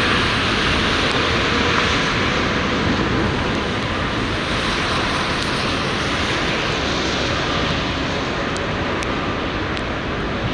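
Jet airliner's engines running loud and steady on a landing approach, with gusty wind rumbling on the microphone.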